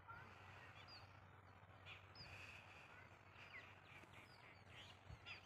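Near silence with faint birds chirping now and then: short, high calls, several sliding down in pitch, over quiet open-air background.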